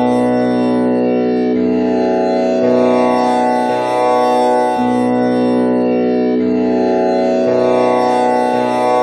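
Tanpura drone tuned to B with the first string set to komal Ni: four strings plucked in turn, the cycle repeating about every five seconds, each string ringing on under the next.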